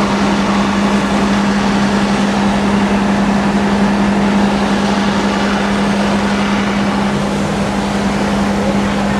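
A vehicle engine running steadily: a constant low hum over an even wash of noise that does not change.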